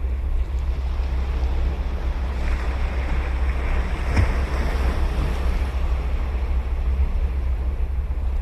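Ocean waves breaking on a sandy beach, with one wave swelling up from about two seconds in, peaking about four seconds in, and washing away by about six seconds. A steady low rumble of wind on the microphone runs under it.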